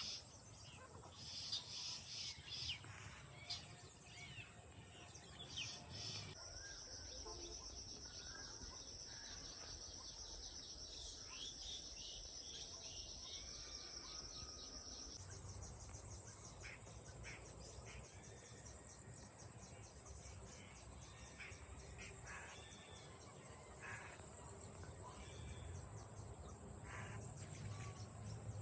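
Outdoor insect chorus, crickets or cicadas shrilling steadily at a high pitch, with scattered short bird chirps and calls. The insect tones change pitch about six seconds in and again about fifteen seconds in.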